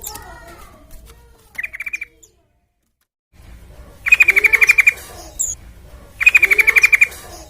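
Yellow-vented bulbul (trucukan) calling in fast runs of rapidly repeated chattering notes: one short run, a pause of about a second, then two loud runs of about a second each. Softer bird notes sound between them.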